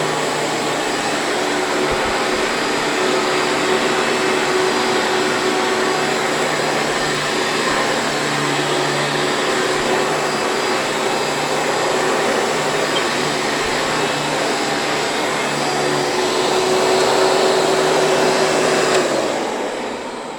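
Hoover Preferred upright vacuum cleaner running steadily with a hum under its airflow noise, then switched off near the end and winding down.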